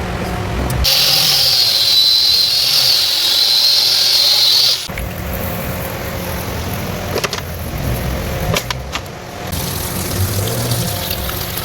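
A power tool whines loudly for about four seconds and then cuts off suddenly. After it, a low mechanical rumble runs on with a few sharp clicks and knocks.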